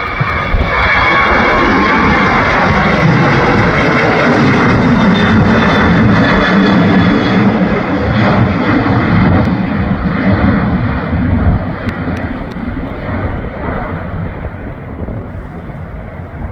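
Boeing 737-800's CFM56-7B jet engines at takeoff power: the roar swells about half a second in, stays loud, then fades over the last few seconds, with a whining tone in the first few seconds. Gusty wind rumbles on the microphone underneath.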